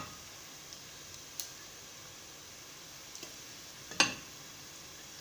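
Whole spices, ginger and green chilli frying gently in oil in a stainless steel pot: a faint steady sizzle broken by a few sharp clicks, the loudest about four seconds in.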